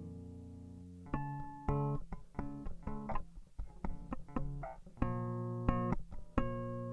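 A 40-year-old Steinberger electric played solo and unamplified by other instruments. A held note rings down through the first second, then single plucked notes follow, with a quicker run of notes in the middle and two longer ringing notes near the end.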